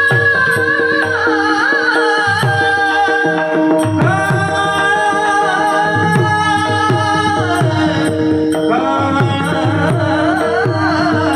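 Mridang (pakhawaj) playing a steady rhythm of deep bass strokes, each sliding down in pitch, under long held melody notes.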